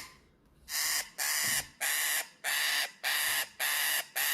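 Piglet crying: a steady series of about seven short, equally loud squeals, roughly two a second, starting about half a second in.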